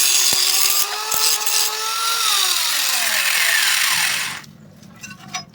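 A power tool working the metal of a motorcycle exhaust, its whine sinking as the tool is switched off and spun down, cutting out about four seconds in. A low hum and a few light knocks follow.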